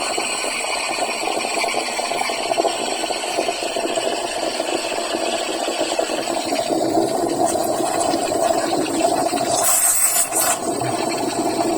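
Espresso machine steam wand hissing steadily into a cup of milk, heating it. The sound shifts about halfway through, and near the end there is a brief, sharper, brighter hiss.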